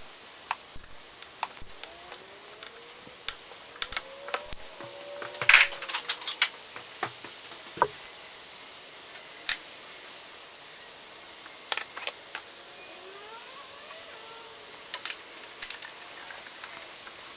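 Irregular sharp clicks and clinks of hand tools and parts being handled during an oil change, loudest in a cluster about five and a half seconds in, with faint short gliding chirps underneath.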